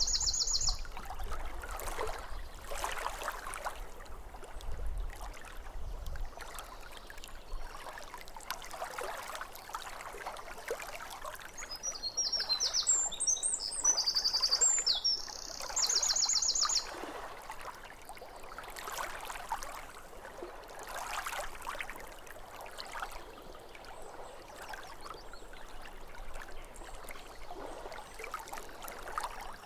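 Small waves lapping at a lake shore in soft repeated swells, with a songbird singing: a short trill at the start, then a burst of chirps ending in a fast trill about twelve seconds in.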